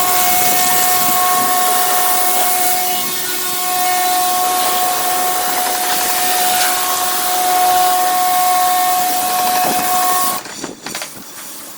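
Automatic car wash machine running: a loud rushing hiss with a steady high whine, cutting off abruptly about ten seconds in, leaving a quieter, uneven noise.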